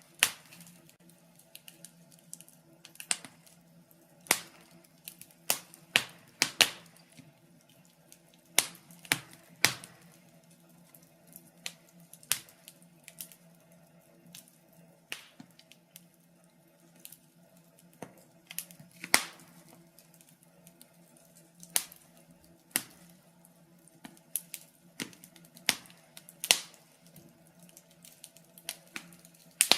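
Log fire crackling: irregular sharp pops and snaps of burning wood, some loud and some faint, over a faint steady low hum.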